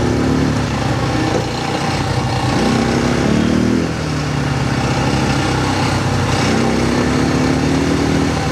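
Quad bike engine running under way, its revs climbing and easing a couple of times.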